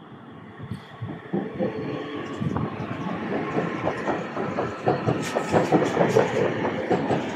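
Northern passenger multiple-unit train running past the platform, getting steadily louder as it comes near. Its wheels click over the rail joints in a quick, irregular rhythm as the carriages go by.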